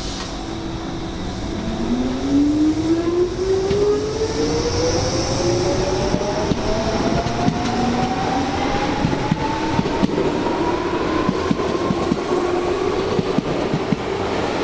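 Electric commuter train pulling away: its traction motors whine in one tone that rises steadily in pitch as it accelerates. From about halfway through, the wheels clatter over the rail joints.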